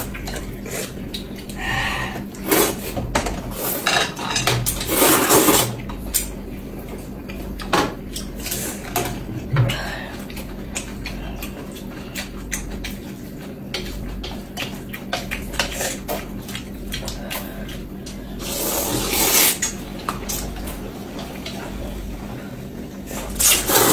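Utensils clinking and scraping against bowls and plates during a meal, as scattered irregular clicks, with two longer bursts of louder scraping or rustling, one around five seconds in and one near nineteen seconds.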